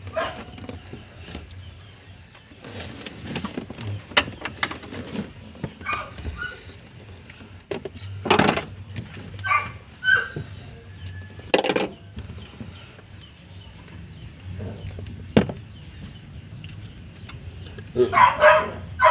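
A dog barking a few times, single short barks about eight and a half and twelve seconds in, with an odd sharp click from work on the car and a low steady hum underneath.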